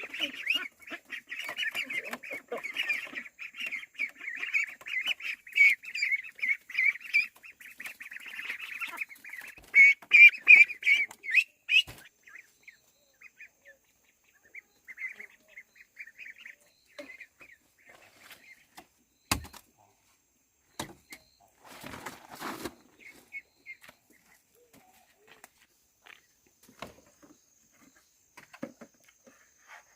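A group of ducklings peeping together, high and continuous, for about twelve seconds. After that only scattered peeps remain, with a few sharp knocks in the second half.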